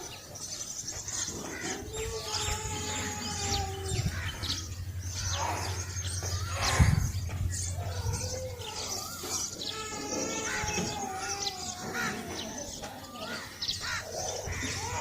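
Small birds chirping and calling in a dawn chorus, many short overlapping chirps. A low steady hum runs underneath for several seconds, and a sharp knock comes about seven seconds in.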